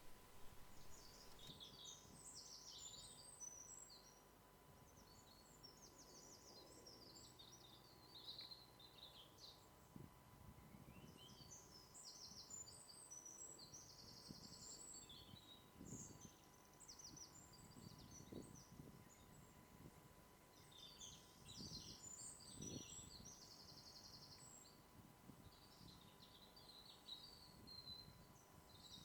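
Faint woodland birdsong: several small birds chirping and trilling again and again, over a faint steady high tone.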